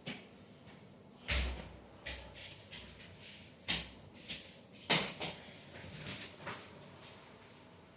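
A string of irregular knocks and clunks from hard objects being handled, three louder ones among a dozen or so lighter taps.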